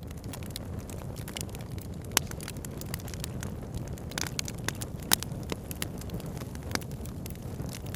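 Wood campfire crackling, with frequent sharp pops over a steady low rush; the loudest pops come about two seconds in and just after five seconds.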